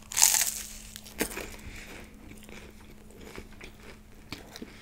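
A bite into a flaky puff-pastry patty: a loud, crisp crunch right at the bite, a second sharp crunch about a second in, then crunchy chewing of the pastry.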